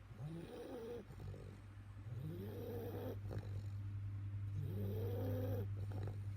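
A bulldog snoring in its sleep, three drawn-out snores about two and a half seconds apart, each rising in pitch and then levelling off. A steady low hum runs underneath.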